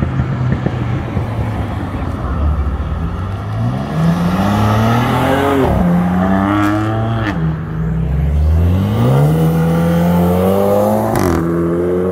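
BMW M4's twin-turbo straight-six pulling away and accelerating hard through the gears: a low steady note at first, then the engine note climbs and drops back at three upshifts.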